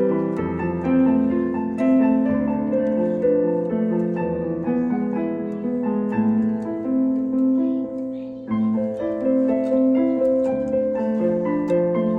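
Piano playing a slow melody over held chords, with a brief break about eight and a half seconds in before it resumes.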